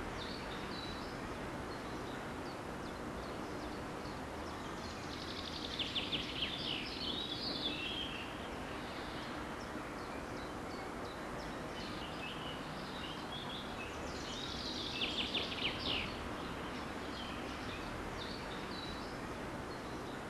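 Songbirds singing over a steady background rush, with scattered high chirps and two louder trilled song phrases, one about five seconds in and another about fifteen seconds in.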